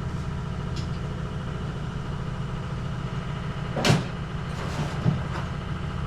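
Steady low machine hum with a sharp knock about four seconds in and a few lighter knocks, typical of tools and metal parts being handled.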